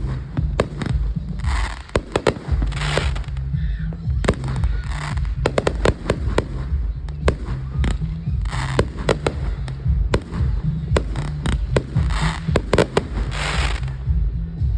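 Fireworks show: a rapid, irregular run of sharp bangs, with crackling bursts about half a second long every second or two, over a steady low rumble.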